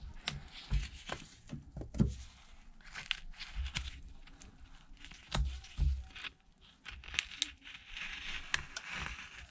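Irregular small clicks, taps and light scraping from a thin pry card and tools working along the edge of an iPad's screen, loosening its adhesive.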